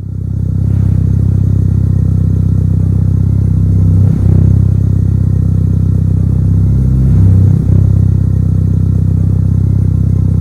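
Mitsubishi Lancer Evolution IX's turbocharged four-cylinder engine running loudly and steadily, its pitch sweeping briefly twice, about four seconds in and again around seven and a half seconds in.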